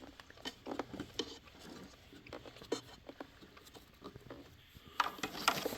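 Handling noise from an upright vacuum cleaner being moved: scattered light taps and clicks, then a louder rustle about five seconds in.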